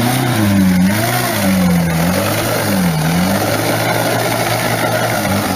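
A vehicle engine revving up and down, its pitch swinging about three times before it settles to a steadier note in the second half.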